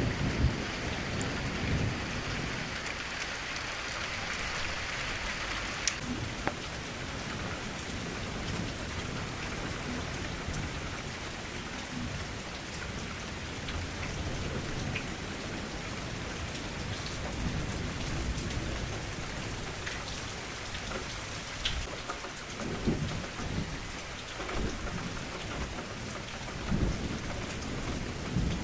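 Steady rain falling, with low rolls of thunder near the start and again about 23 and 27 seconds in. A brighter layer of hiss drops away suddenly about six seconds in.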